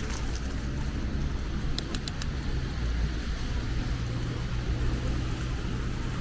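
Low, steady rumble of city road traffic, with a few quick sharp clicks about two seconds in.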